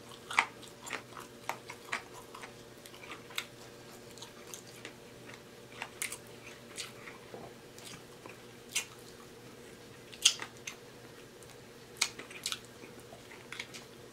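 Close-miked chewing and biting on fried chicken wings: irregular sharp mouth clicks and smacks as meat is pulled off the bone, a few louder smacks standing out.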